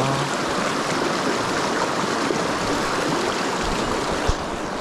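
Mountain stream rushing over rocks, a steady even rush of water. A single low thump about four seconds in.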